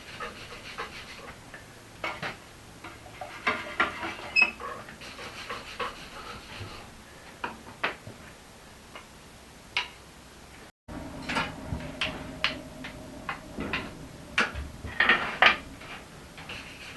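Irregular scraping and light metallic clinks as scale is scrubbed off a hot, cooling forged axe head during normalizing. The sound breaks off briefly about eleven seconds in, then the scraping and clinks resume.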